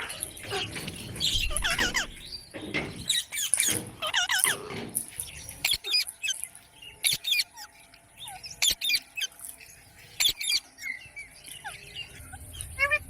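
Green parrots calling: a dense run of squawks and pitched calls over the first five seconds or so, then shorter sharp chirps and clicks.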